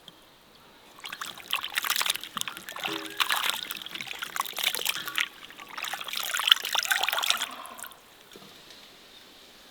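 Water trickling and splashing for about six seconds, starting about a second in, then stopping.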